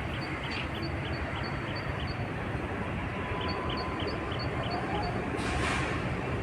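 Express passenger train rolling into a station, a steady low rumble, with a high chirping repeated about four times a second in two runs, and a short hiss near the end.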